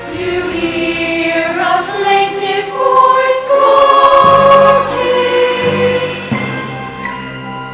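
A choir of girls' voices sings a song from a stage musical over a sustained accompaniment. The notes are long and held, loudest midway, and ease off near the end.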